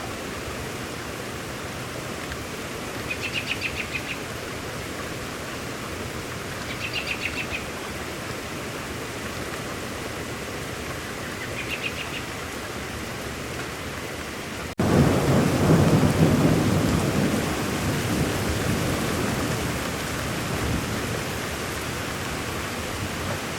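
Steady rain hissing, with three short high trills in the first half. Well past halfway the sound cuts off abruptly, and a low thunder rumble comes in over heavier rain, loudest for a few seconds and then easing off.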